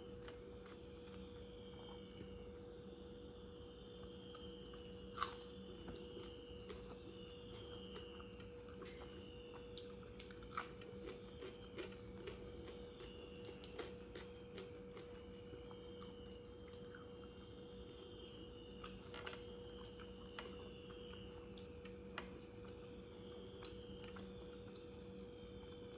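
A person chewing chapathi and curry, with scattered small mouth clicks and a sharper click about five seconds in, over a steady low hum.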